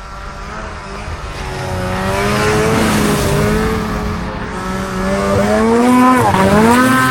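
Snowmobile engine revving hard under load, its pitch climbing and holding high, then dropping sharply about six seconds in and rising again, as the sled works through deep snow and slush.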